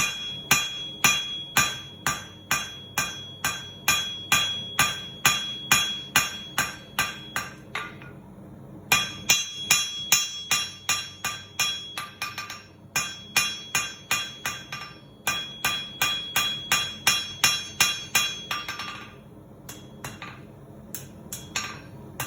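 Blacksmith's rounded-face hammer striking hot steel on an anvil in a steady rhythm, about two to three blows a second, each blow leaving a ringing tone. The blows pause briefly about eight seconds in and turn lighter and sparser near the end.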